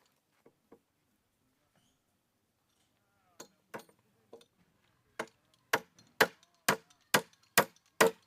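Repeated sharp blows of a tool on wood during woodworking. A few light knocks come first, then about halfway through a steady run of loud strikes begins, about two a second.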